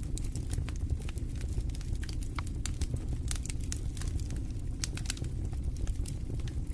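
Fireplace fire crackling, with many irregular sharp pops over a steady low rumble of the flames.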